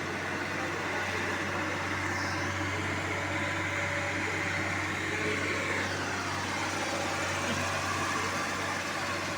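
Engine of a PQRS track-relaying machine running steadily, a constant low hum under continuous mechanical noise.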